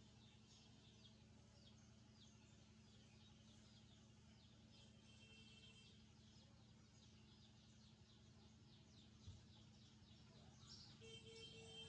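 Faint, rapid high-pitched chirping of young birds about 26 days old, over a steady low hum. A single click comes about nine seconds in, and a short held tone near the end.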